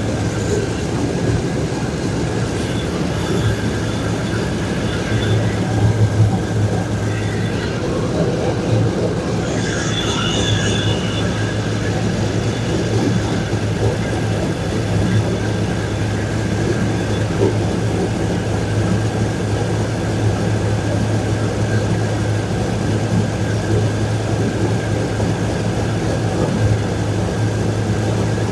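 2002 Chevrolet Silverado engine idling steadily, with a healthy exhaust leak that the owner puts down to a V-band clamp not seated all the way around. A brief higher-pitched sound comes about ten seconds in.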